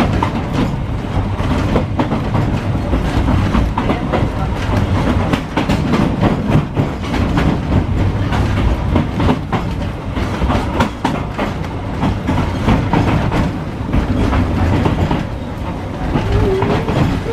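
Ex-Melbourne W2 class tram running along the track, heard from on board: a continuous low rumble with frequent clacks and rattles from the wheels and car body.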